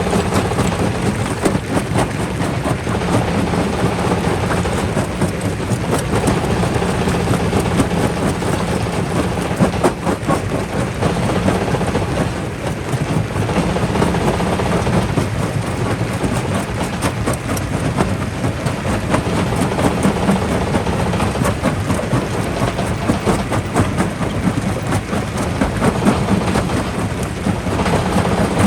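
Jaw rock crusher running, with rock cracking and knocking between the jaws in a dense, uneven stream of hits over a steady low drone.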